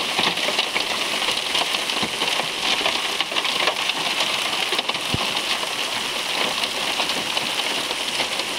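Steady rain falling, with many close drop impacts ticking through it. There is a single dull knock about five seconds in.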